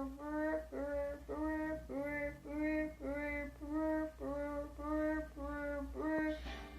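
A high voice, a child's or a woman's, singing a simple repeating tune in short, even notes, about three a second.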